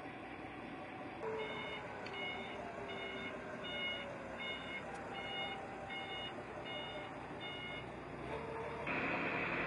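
A vehicle's reversing alarm beeping, a little faster than once a second, for about ten beeps over a steady engine hum. Near the end a louder steady rushing noise sets in.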